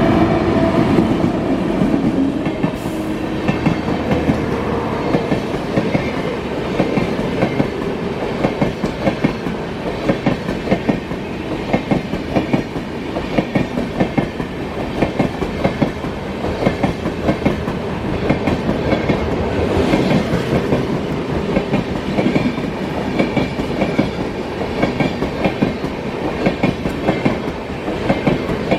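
A passenger train passing, its wheels clattering rhythmically over the rail joints.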